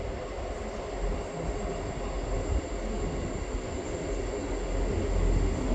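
South Western Railway passenger train running on the line, a steady low rumble that grows louder near the end.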